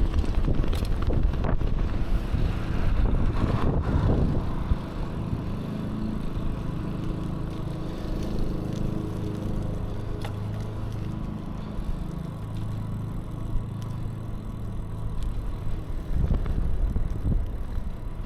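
Wind rushing over the microphone and road rumble while riding a bicycle, louder for the first few seconds, then steadier.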